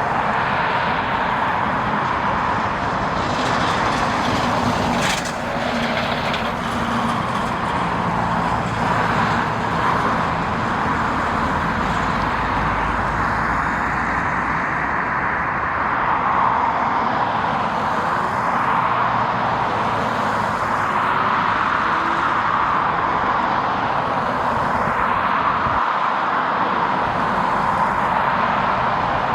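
Jet airliner engines running, a steady, even rush of jet noise.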